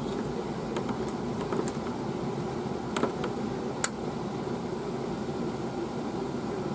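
Steady machine hum in the background, with a few faint clicks and small taps; the sharpest click comes about four seconds in.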